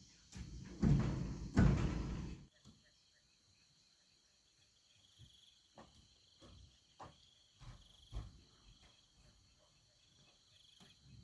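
A couple of seconds of heavy rubbing or scraping at the start, then scattered light knocks and taps of handled material. A faint steady high insect chirr runs throughout.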